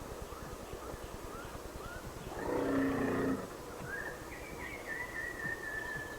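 African elephant giving a short, low call about two and a half seconds in, over small chirps from birds. A long, high, slightly falling note follows from about four seconds in.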